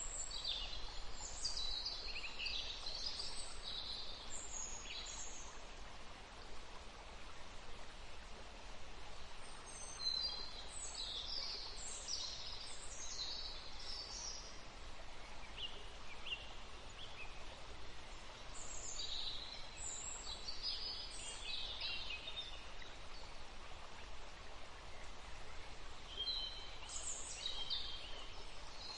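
Songbirds singing in bursts of high, chirpy phrases, with quieter gaps between, over a steady faint background hiss.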